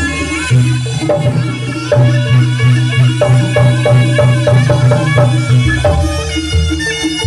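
Live jaranan (kuda lumping) music: drums and other percussion keep a steady, fast-repeating rhythm under held melodic tones.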